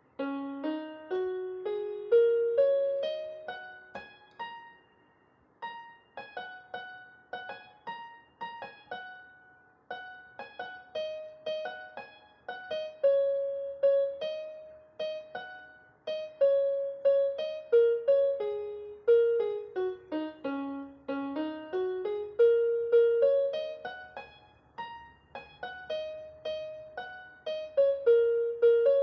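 Background music: a gentle melody of single piano-like notes, each struck and fading, with a short pause about five seconds in.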